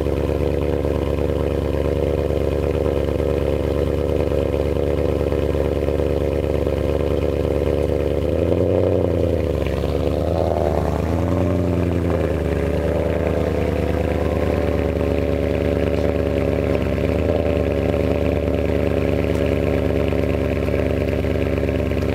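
BMW E39 M5's 4.9-litre V8 idling through an Eisenmann Race exhaust with X-pipe after a cold start, blipped twice about nine and eleven seconds in, the pitch rising and falling each time before settling back to a steady idle.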